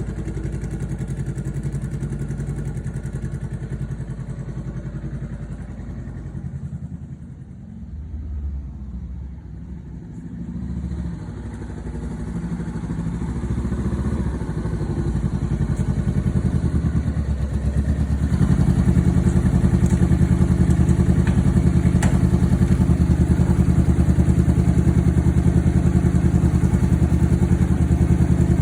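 A 2017 Honda CBR500R's parallel-twin engine running steadily through an aftermarket exhaust. It drops quieter for a few seconds about a third of the way in, then comes back up louder and holds steady from about two-thirds through.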